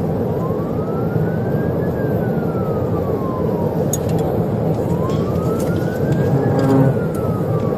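Police car siren on a slow wail, its pitch rising and falling about every four and a half seconds, heard twice over the steady road and engine noise of a patrol car driving at highway pursuit speed.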